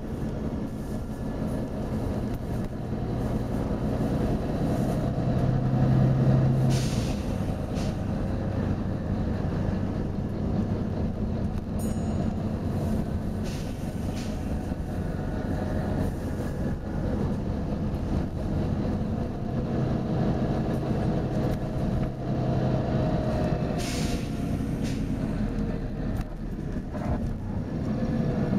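Volvo B9TL bus's diesel engine running as the bus drives, its note swelling twice. Two short air hisses from the bus's air system come with the swells.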